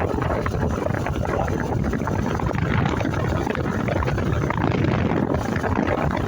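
Steady wind noise on the microphone of a moving motorcycle, with the bike's engine and road noise underneath.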